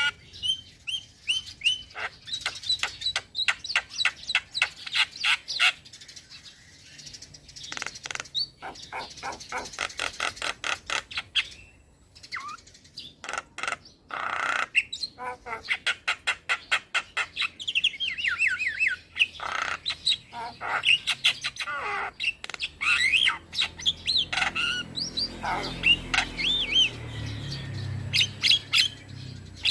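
Young male Javan myna singing energetically: fast runs of sharp repeated chirps, with some gliding whistled notes and short squawks mixed in.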